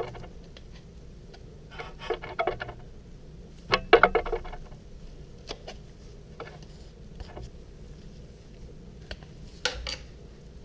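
Metal hand tools clinking and rattling as they are handled. There are short clusters of rattling clicks about two seconds in and again about four seconds in, the second the loudest, light scattered ticks in between, and a single sharp clink near the end.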